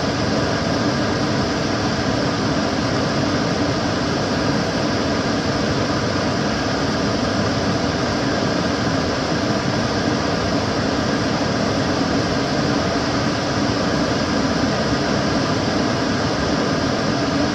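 Kitchen cooker hood extractor fan running steadily: an even rushing of air with a low hum and no change in speed.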